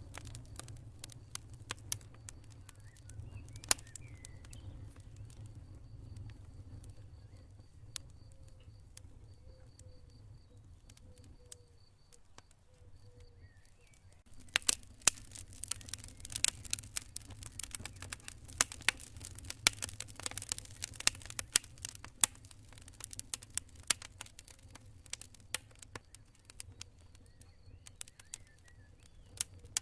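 Campfire burning with crackles and sharp pops over a low steady rumble. The crackling is sparse at first and grows much denser about halfway through. A faint high, pulsing trill of crickets is heard in the first half.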